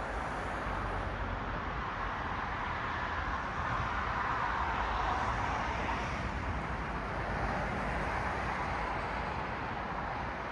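Road traffic: cars passing with a steady hiss of tyres and engine noise, swelling a little towards the middle as a car goes by.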